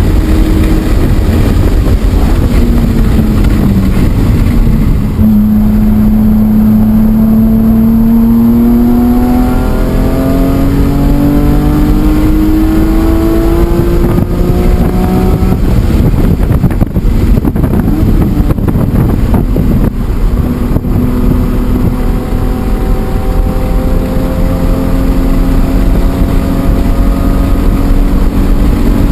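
BMW E46 M3's 3.2-litre straight-six engine heard from inside the car at speed on a race track. Its pitch falls over a few seconds, then climbs steadily for about ten seconds under hard acceleration. It eases off through the middle with a few sharp clicks, then climbs again in the last several seconds.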